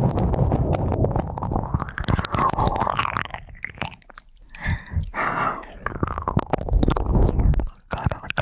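Ear-cleaning sounds on a close-up ear microphone: scraping, rubbing and crackling with many small clicks, easing off briefly about four seconds in and again near the end.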